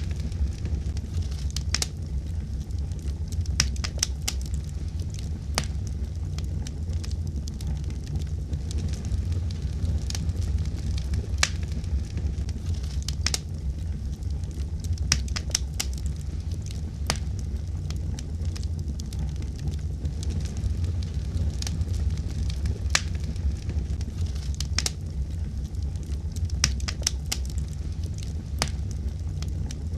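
Wood fire burning: a steady low rumble of the flames with frequent sharp, irregular crackles and pops.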